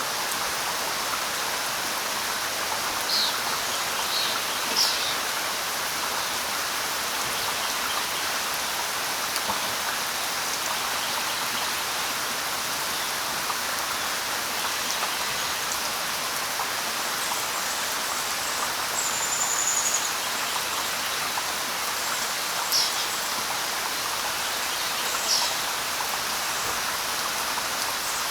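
Steady light rain falling on leaves, with a few short high bird chirps scattered through it and one thin, high whistled bird note about two-thirds of the way in.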